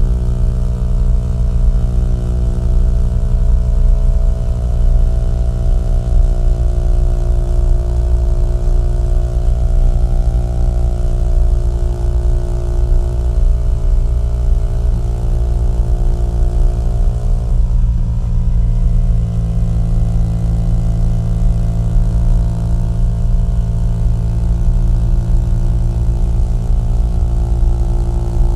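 Small-displacement motorcycle engine and exhaust running steadily while riding. The engine note drifts slowly in pitch, and about eighteen seconds in it briefly breaks and settles at a new pitch.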